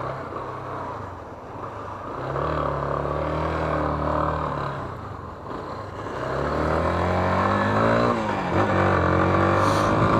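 Yamaha Fazer 250's single-cylinder four-stroke engine accelerating, its pitch rising in two pulls with a drop at a gear change about eight and a half seconds in.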